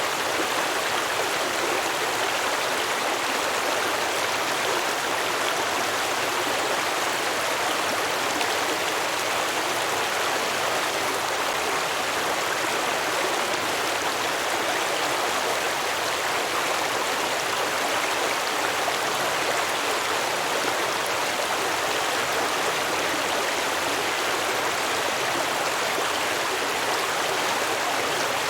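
Stream water flowing and babbling over rocks, a steady, unbroken rush.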